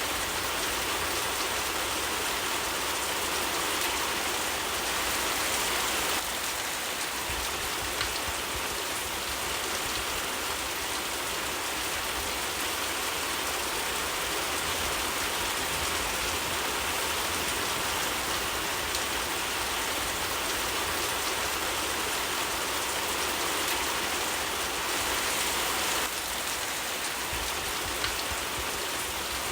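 Rain falling steadily, a continuous even wash of sound.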